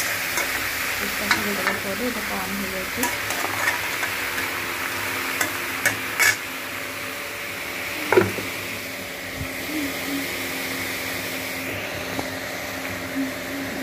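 Shrimp sizzling in hot oil in a metal kadai while a metal ladle stirs them, clinking and scraping against the pan a dozen times. The sizzle fades after about eight seconds.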